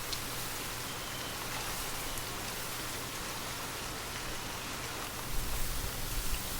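Steady light rain falling, an even hiss of raindrops. A low rumble comes in near the end.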